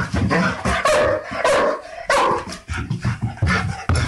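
A dog barking fiercely, a rapid run of loud barks about two a second, snarling with bared teeth: aggressive warning barking.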